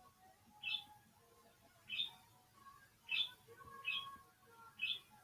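A bird chirping faintly: five short, high chirps about a second apart.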